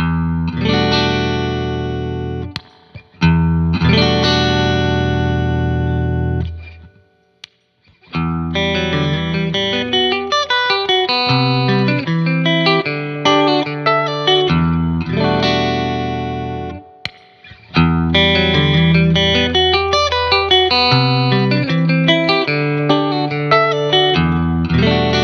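Electric guitar played through a Retrospec Squeeze Box tube compressor/limiter pedal: two long chords left ringing, a pause of about a second, then a busier run of quickly picked chords and single notes.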